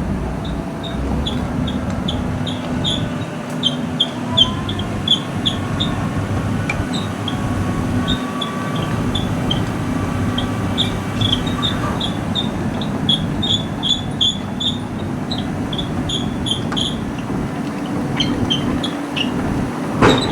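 Cat 320D long-arm excavator's diesel engine running steadily while its steel tracks squeak and clink in quick irregular runs as it travels. A sharp knock comes just before the end.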